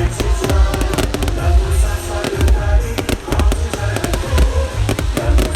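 Fireworks going off in quick, irregular bangs and crackles over loud music with a steady heavy beat.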